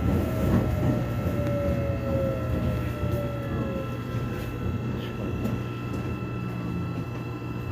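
Korean subway express train running, heard from inside the car: a steady rumble of wheels and motors, with a whine that falls slowly in pitch over the first few seconds.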